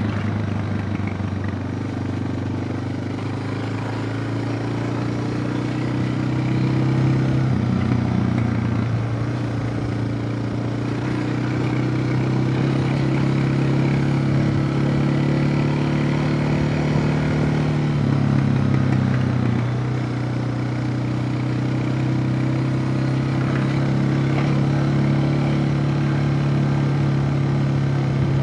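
Suzuki DR650's single-cylinder engine running steadily while the motorcycle is ridden, its note shifting up and down a few times with the throttle.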